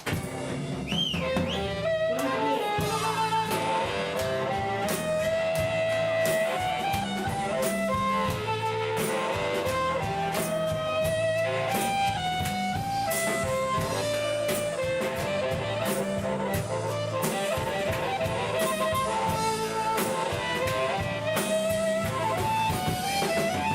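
Live band playing an instrumental break without vocals: a lead melody of held and stepping notes over guitar, bass and a drum kit keeping a steady beat.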